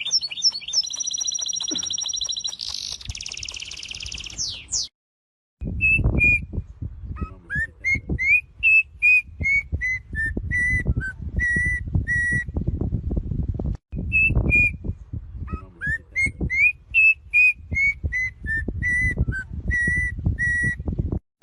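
Songbird singing: a fast high trill for the first few seconds, then after a short break a phrase of clear whistled notes that rise and then hold on one pitch, repeated a second time. A low rumbling, crackling noise runs underneath the song.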